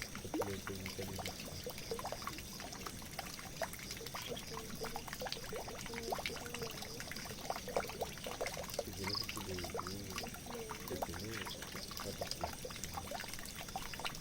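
Water pouring and trickling steadily into a drain, with many small splashes and drips throughout.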